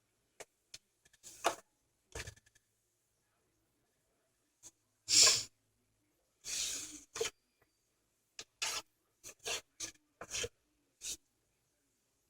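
A damp rag being rubbed over the inside of a microwave: a series of irregular short wiping strokes, the loudest about five seconds in and a longer stroke about a second and a half later.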